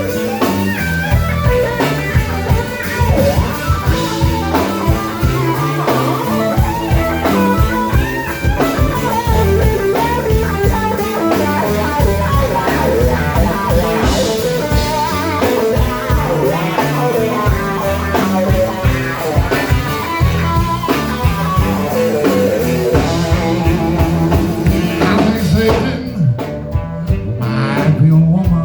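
Blues-rock music led by electric guitar, with drums.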